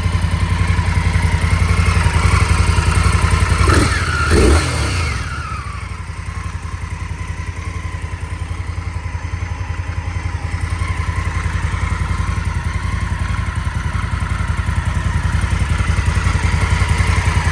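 2024 Indian Scout Bobber's liquid-cooled V-twin idling, blipped twice in quick succession about four seconds in, then dropping back to a steady idle.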